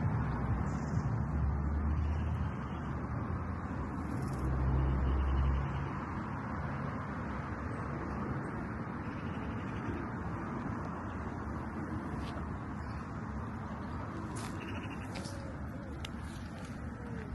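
Outdoor park ambience: a steady wash of distant traffic, with low rumbling gusts of wind on the microphone in the first few seconds and a pigeon cooing faintly near the end.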